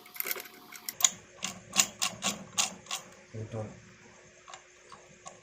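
Sharp metallic clicks and knocks of hand tools working on engine parts, about two a second and then sparser and fainter.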